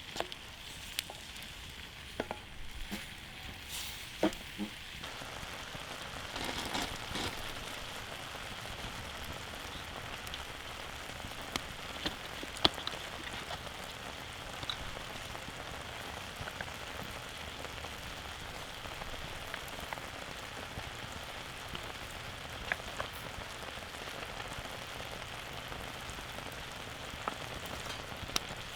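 Wood fire crackling, with sharp pops here and there over a steady hiss. The sound fills out and grows a little louder about five seconds in.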